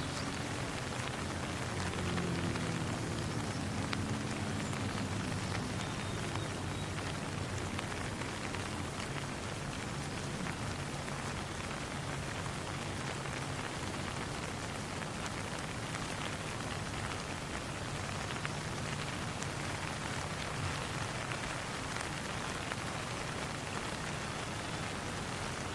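Steady rain falling on a surface, an even hiss of drops, with a faint low hum beneath it that swells a few seconds in.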